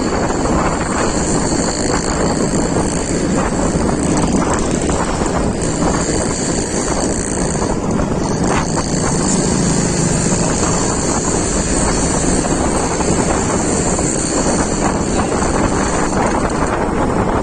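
Steady wind rushing over the microphone of a moving vehicle, with the vehicle's running and road noise underneath.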